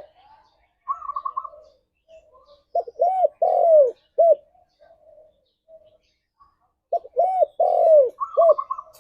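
Spotted dove cooing: a phrase of several short, arched coos with one longer drawn-out note, repeated about every four seconds, with a quick run of higher notes after each phrase.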